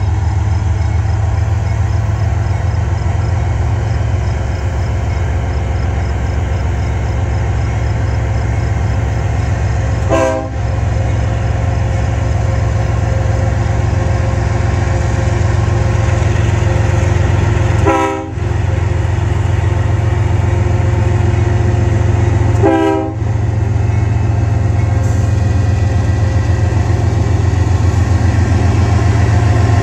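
Diesel freight locomotives passing close by, engines running with a heavy steady drone. The horn is held, and a grade-crossing bell rings for the first part.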